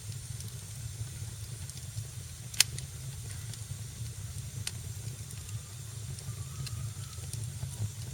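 Fireplace fire crackling: a steady low rumble and soft hiss with scattered pops, the sharpest about two and a half seconds in and another near five seconds.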